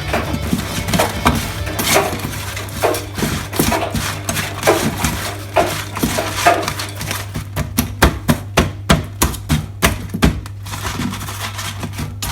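Knife chopping a potato on a chopping board: a series of sharp knocks that come faster and more regularly in the second half, about three to four a second, over a steady low hum.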